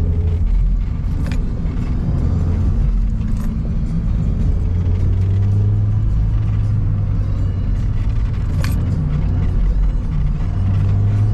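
2019 Mazda MX-5 Miata's four-cylinder engine and road noise heard from inside the cabin while driving, the engine note shifting up and down with revs. Two sharp clicks, one about a second in and one past the middle.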